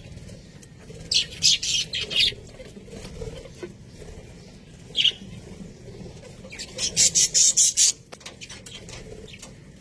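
Budgerigars chirping in quick high bursts, a run of rapid chirps early on, a single call about five seconds in, and another fast run near the end, over a steady low background hum.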